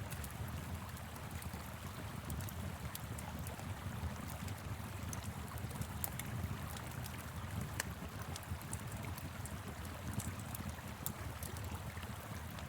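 Wood fire crackling, with scattered sharp pops, over the steady rush of a flowing river and a low steady rumble.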